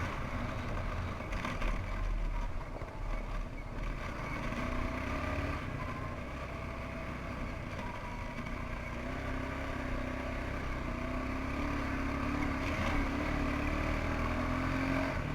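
1992 Suzuki QuadRunner 300 ATV engine running under way on the trail, its pitch climbing gradually through the second half.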